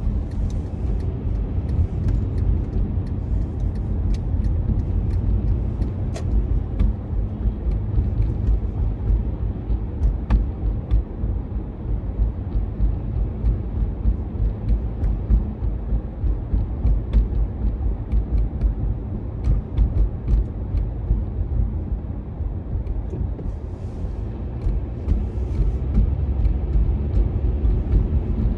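Automatic tunnel car wash heard from inside a car: a steady low rumble with scattered sharp clicks and a faint hiss.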